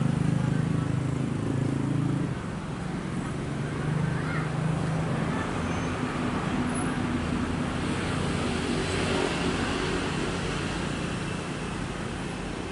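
Heavy engine drone from a passing train's locomotive, which fades about two seconds in. A steady rumbling noise follows and broadens near the end.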